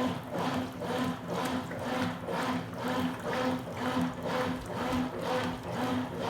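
Consul Super Cargo 8 kg top-loading washing machine agitating a load of towels in its rinse water: the motor hum and the water sloshing swell and fade in an even rhythm of about two strokes a second.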